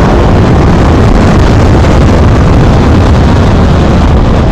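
Loud, steady wind noise buffeting the microphone on a moving Honda motorcycle, with the bike's engine running underneath.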